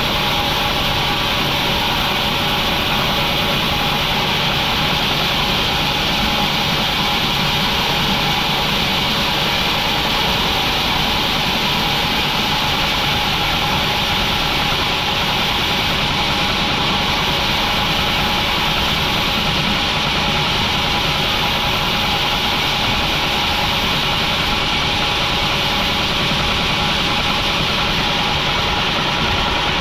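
Sawmill machinery running with a steady, unchanging mechanical drone.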